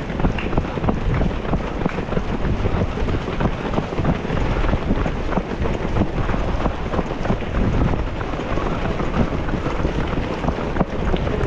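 Strong wind buffeting the microphone of a camera carried on a run, a steady loud rumble with no let-up.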